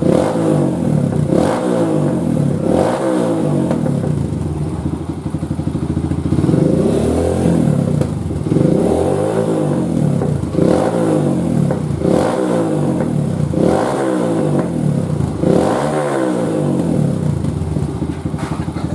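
Kawasaki KLX single-cylinder four-stroke engine through a GP7 aftermarket exhaust, revved in repeated throttle blips, its pitch rising and falling about every one and a half seconds.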